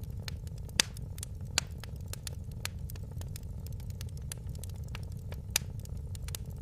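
Wood fire in a fireplace crackling: a constant run of small clicks and sharp pops over a low steady rumble, with three louder pops, two close together about a second in and one near the end.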